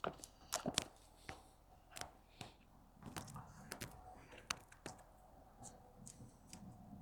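Grohmann No.3 boat knife cutting food: a string of irregular light clicks, cracks and taps, about a dozen spread over several seconds.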